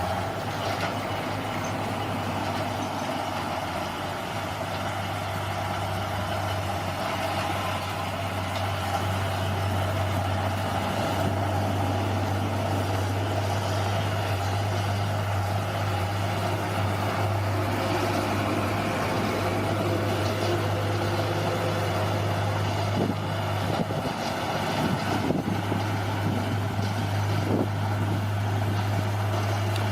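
Bulldozer's diesel engine running steadily under work, with a few short knocks in the second half.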